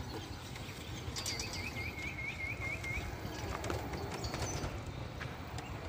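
A bird calling a quick run of about eight short, even notes about a second in, over steady low background noise.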